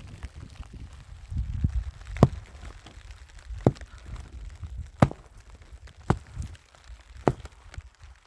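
Wood being chopped: five sharp blows, one about every second and a quarter, over a low rumble.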